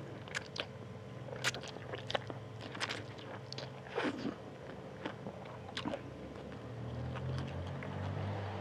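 Close-miked chewing of spicy fried instant noodles, with irregular sharp wet mouth clicks and smacks.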